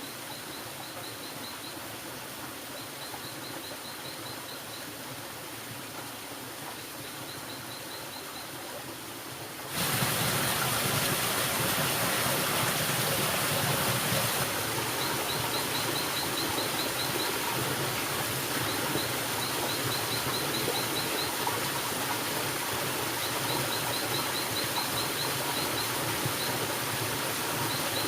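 Outdoor ambience with a steady hiss and repeated short runs of quick high chirps every few seconds. About ten seconds in, the hiss turns abruptly louder and stays so.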